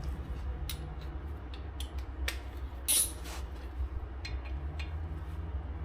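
Scattered light metal clicks and knocks of hand tools working the brake rotor's Torx retaining screw loose, the sharpest click about three seconds in, over a steady low hum.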